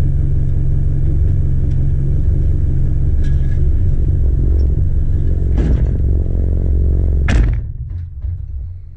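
Diesel engine of a Cat 312CL excavator running steadily with a deep rumble. A single loud knock comes about seven seconds in, after which the engine sound dies away.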